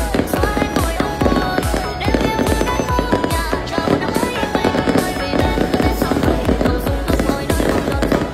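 Fireworks bursting in quick, continuous succession, with music playing alongside.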